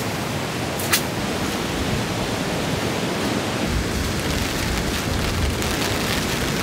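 Heavy rain pouring steadily in a storm. A single sharp tick comes about a second in, and a low rumble joins about halfway through.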